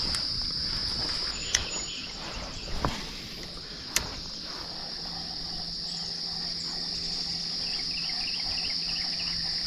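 Steady high-pitched buzzing of insects, with a few sharp clicks in the first half.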